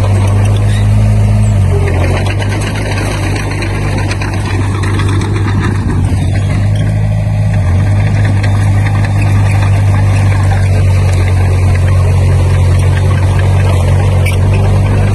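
Diesel engine of heavy earthmoving equipment running steadily with a low drone. It eases off slightly a few seconds in, then holds.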